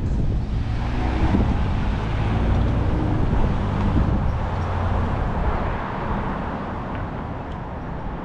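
City road traffic, with a motor vehicle passing close by: its engine hum is heard for a couple of seconds about a second in, over a steady low rumble that eases off slightly near the end.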